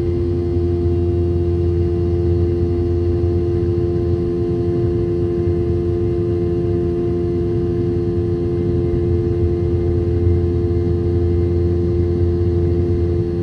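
Steady cabin drone of a Boeing 717-200's two tail-mounted Rolls-Royce BR715 turbofans heard from a rear seat: a deep rumble with a strong, steady engine tone on top that holds level throughout.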